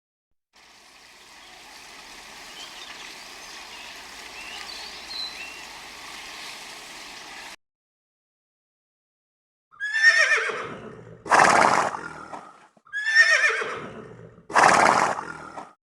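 A horse whinnying twice in the second half, each call a falling cry that runs into a rougher, noisier tail, after several seconds of faint outdoor background.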